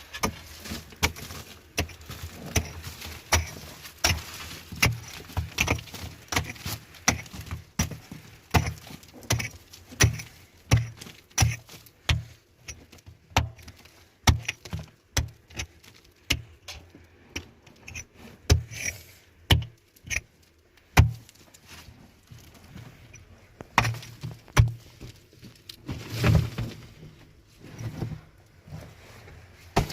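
A long series of sharp knocks or impacts at irregular intervals, about one or two a second, with a heavier thud near the end.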